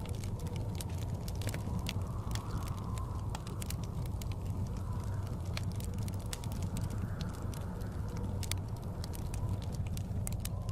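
Wood fire crackling with frequent sharp pops over the steady low rumble of blizzard wind, which swells gently now and then.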